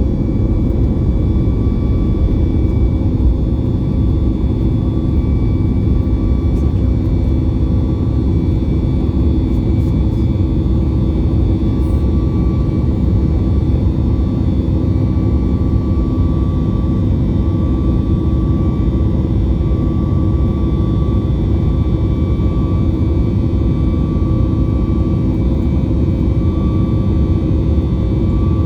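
A Boeing 737 MAX 8's CFM LEAP-1B turbofan engines running at takeoff and climb thrust just after liftoff, heard inside the cabin. The sound is a steady, loud low rumble with several steady whining tones above it.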